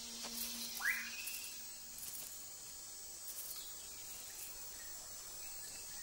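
Tropical rainforest ambience: a steady, high-pitched insect chorus, with a single short rising whistled call about a second in.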